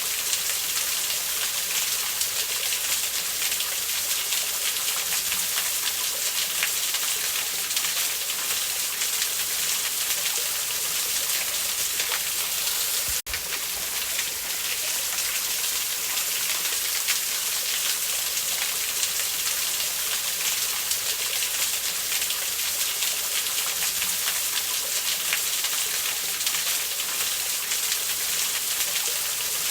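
Steady rushing of a waterfall with the faint crackle of a wood campfire. About halfway through there is a single sharp click and a brief dip in the sound.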